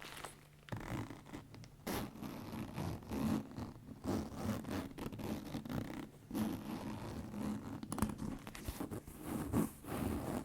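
Leather being handled and rubbed, giving an irregular run of creaks and scratchy rubbing strokes. A brief lull comes at the start, and the handling resumes about a second in.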